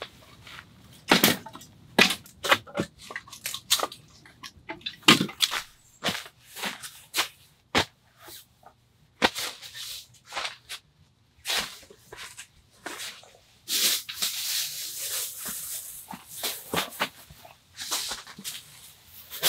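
A run of irregular sharp knocks and clunks, as of hard objects being handled and set down, with a rustling, crunching stretch about two-thirds of the way through.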